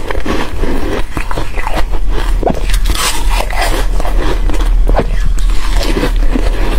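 Close-miked biting and crunching of crispy frozen foam, a rapid, irregular run of sharp crackling crunches.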